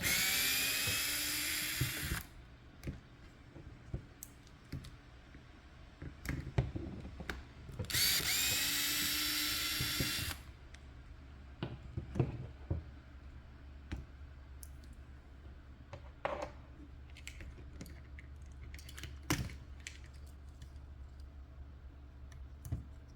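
Small electric screwdriver running twice, about two seconds each time, driving out screws; light clicks and taps of small plastic parts and screws in between.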